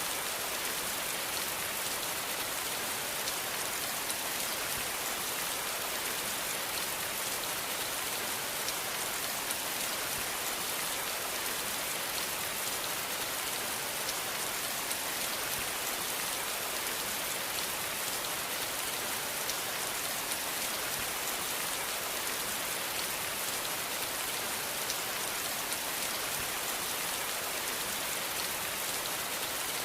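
Steady rain falling, an even hiss with fine scattered drop ticks and no change in intensity.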